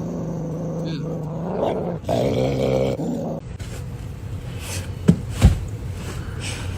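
A dog grumbling in long, low growl-like vocal sounds for about three seconds, followed by two sharp thumps.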